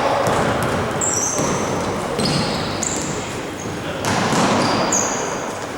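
Basketball game noise in a gym: sneakers squeaking on the court floor, several short high squeaks over a steady din that echoes in the hall.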